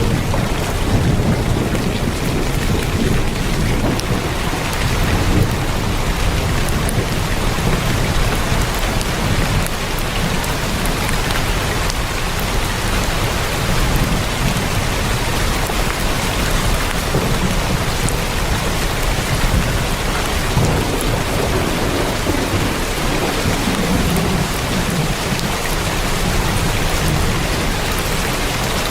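Heavy rain falling steadily on a tin roof, a dense even patter with a low rumble underneath.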